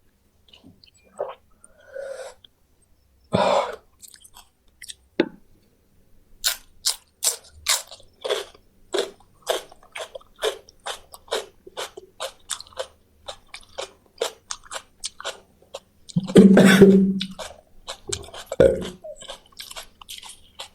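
A person chewing fried quail close to the microphone, crunching through the small bones in a steady run of sharp crunches, two to three a second. A louder, longer noise breaks the rhythm near the end.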